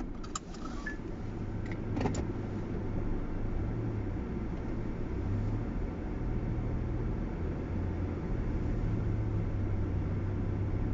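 Steady road and engine rumble inside a Nissan Roox's cabin while driving, with a few sharp clicks in the first couple of seconds.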